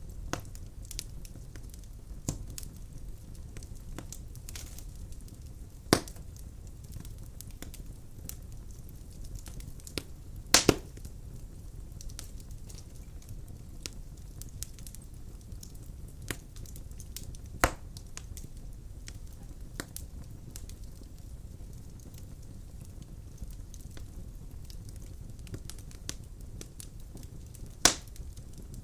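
Wood fire crackling in a fireplace: a steady low rumble of burning with frequent small ticks and a handful of sharp loud pops several seconds apart, one of them a quick double pop.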